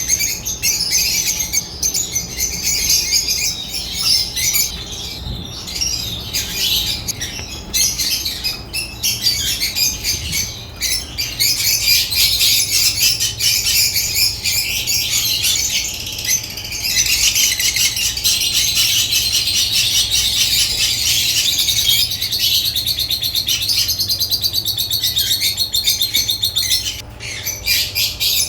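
African lovebirds chirping and chattering continuously in high, shrill notes, with a stretch of fast, even chatter in the second half.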